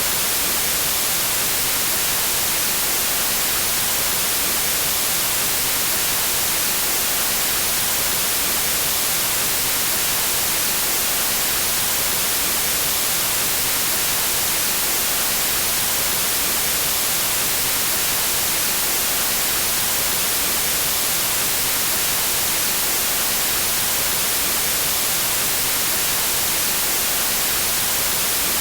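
Steady synthetic white noise: an even, unchanging hiss, brightest in the high frequencies, with no breaks or changes.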